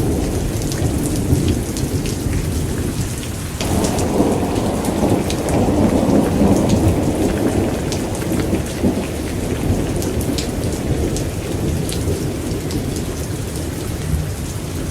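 Thunderstorm: steady heavy rain with many close, sharp drop impacts, under a low rolling rumble of thunder that swells suddenly about four seconds in and slowly dies away.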